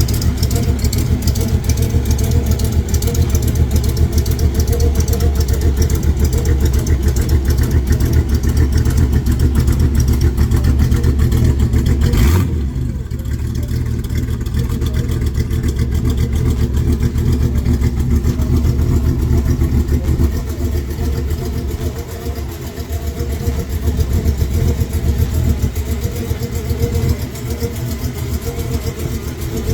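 Engine of a 1931 Ford coupe hot rod running, a steady low rumble with rapid even firing pulses. About twelve seconds in there is a sudden break, after which it runs a little quieter.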